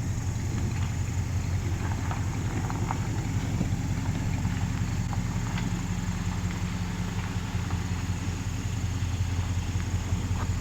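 Truck engine running steadily at low speed, a low even hum with a few faint ticks over it.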